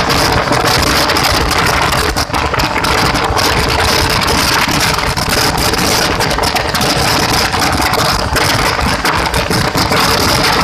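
LHB passenger coaches running at speed, a loud, steady rush of wheel, track and wind noise.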